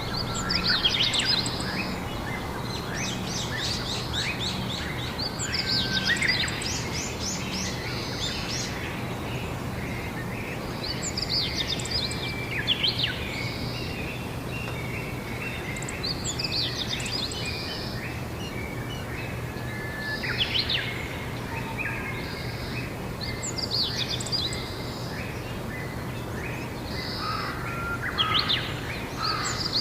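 Songbirds singing short, chirpy phrases that repeat every few seconds, over a steady low background hum.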